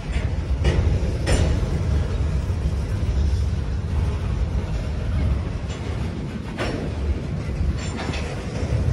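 Empty covered hopper cars of a grain train rolling past close by: a steady low rumble of steel wheels on the rails, with a few sharp clacks, two about a second in and two more near the end.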